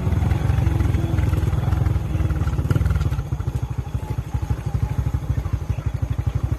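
A small engine running with a rapid, even low-pitched pulse, a little quieter from about halfway through.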